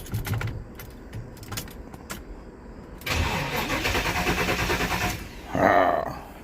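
A few light clicks, then about three seconds in the car's starter motor cranks the engine for about two seconds without it firing, the key now triggering the starter after the ignition was rewired. A short loud burst follows near the end.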